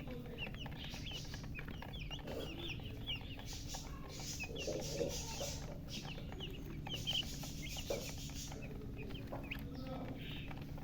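Baby chicks peeping: many short, high chirps overlapping, thinning out near the end, with the odd lower cluck, over a steady low hum.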